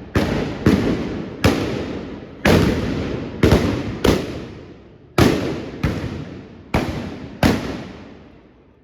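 Trabucaires' blunderbusses (trabucs) firing black-powder blanks in an irregular volley, about ten loud shots, each followed by a long echo that fades before the next.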